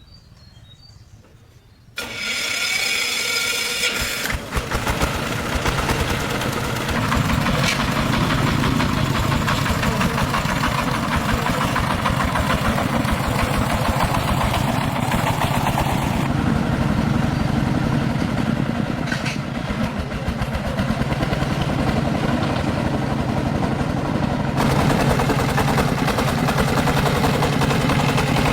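A motor vehicle's engine starts abruptly about two seconds in, with a brief high whine at first, then runs on steadily.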